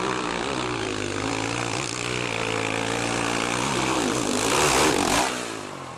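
Motorcycle engine running steadily, swelling into a loud close pass about five seconds in, then falling away.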